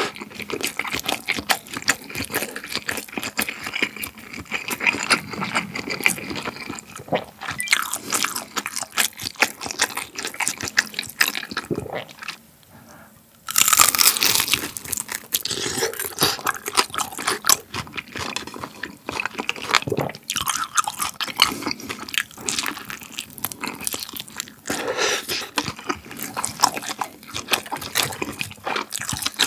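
Close-miked wet, crunchy chewing of spicy fire noodles and grilled beef large intestine (daechang). It pauses briefly about 12 seconds in, then a loud fresh bite into a chunk of daechang starts a new round of chewing.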